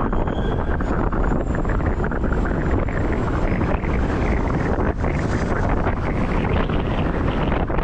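Steady wind rush buffeting the microphone while riding a bicycle, mixed with road and tyre noise, at a constant level throughout.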